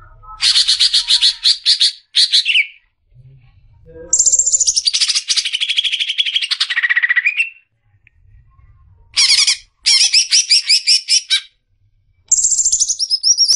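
Cucak ijo (green leafbird) singing loud phrases of rapid, repeated high notes with short pauses between them. The second phrase is a long trill that falls in pitch toward its end.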